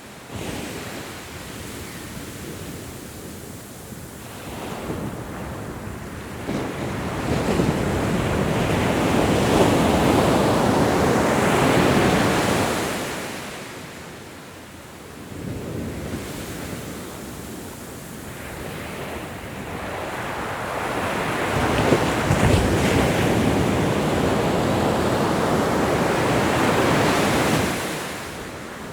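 Ocean waves breaking and washing in, in two long swells: the surf builds to a peak about a third of the way in, ebbs, then rises again and falls away near the end.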